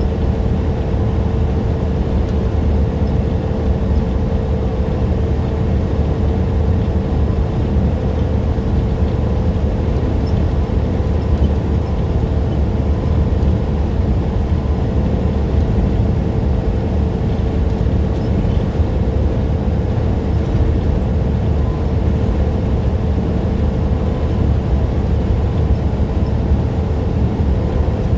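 Semi truck driving at a steady speed: a constant low engine drone with road noise, unchanging throughout.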